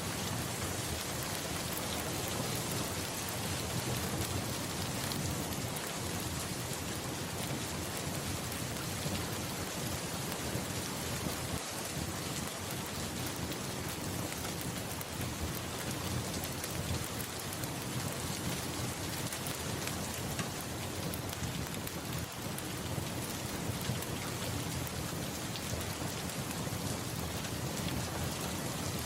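Steady heavy rain falling on a surface, with a low rolling rumble of thunder underneath.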